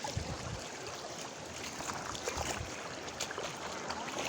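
Floodwater from an overflowing creek rushing steadily, with a few low thumps on the microphone.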